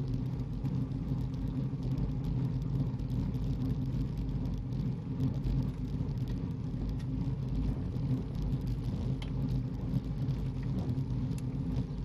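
Car running steadily at an even speed: a low engine hum over road rumble, with no change in pitch.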